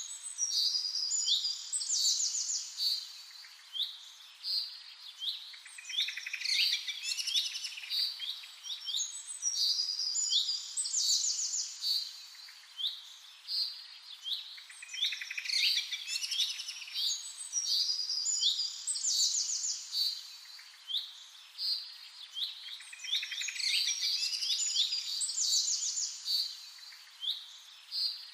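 Songbird singing: bursts of high, quick chirping phrases every few seconds.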